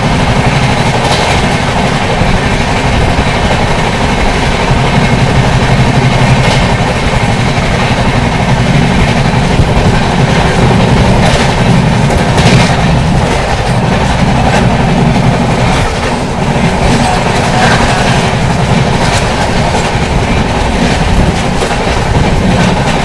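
Sleeper coach of an Indian Railways express running at speed: a loud, steady rumble with the wheels clattering over the rail joints.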